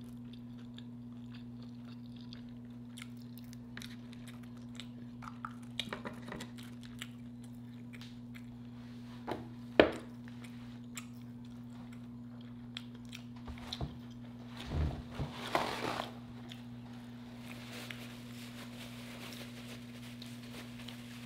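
Close-miked chewing and biting of fried lobster tail and noodles, with scattered crunches and wet mouth sounds and louder bites about ten and fifteen seconds in. A steady low electrical hum runs underneath.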